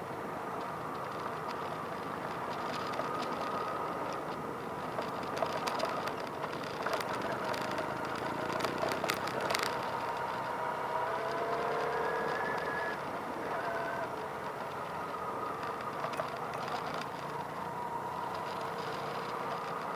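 Motorcycle engines running, their pitch slowly shifting up and down, with a few sharp clicks about halfway through.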